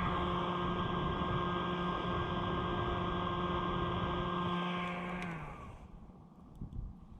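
Steady hum of a small electric motor, several pitched tones together, which slides down in pitch and stops about five seconds in as the motor winds down.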